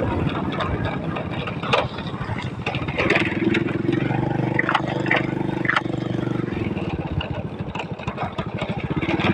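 Motorcycle engine running while riding, its pitch rising about three seconds in as it revs up, with a few sharp knocks and rattles along the way.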